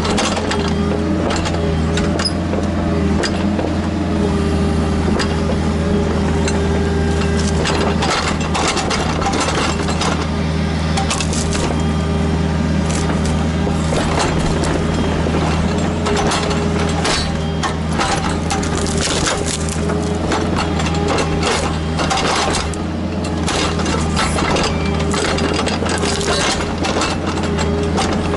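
Kubota KX121-3 mini excavator's diesel engine running steadily under load, with a constant stream of cracks, knocks and crunches as roots, wood and stone are worked.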